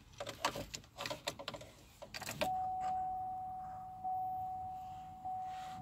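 Car keys jangling and clicking into the ignition, then a single-pitch electronic warning chime that starts suddenly, fades slowly and sounds again twice, about a second and a half apart.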